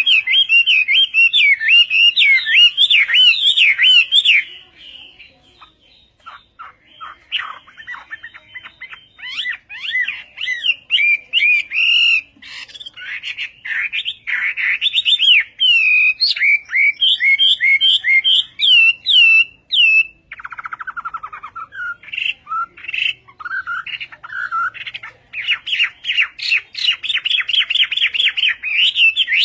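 Hwamei singing: loud, varied whistled phrases and fast trills in quick succession, with a brief pause about five seconds in and a stretch of lower notes past the middle.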